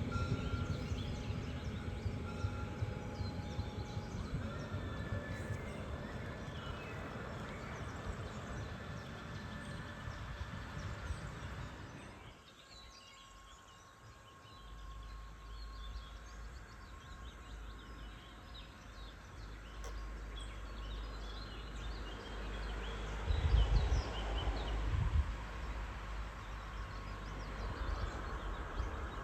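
Outdoor ambience at the water: a low rumble of wind on the microphone with scattered bird chirps. For about the first twelve seconds there are also faint steady whining tones, from the model tug's brushless Schottel drive motors running. The rumble gets louder for a moment about 23–25 seconds in.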